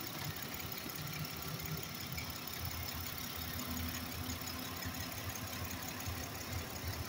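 Ford Explorer's 4.0-litre V6 idling steadily, heard from just above the open engine bay.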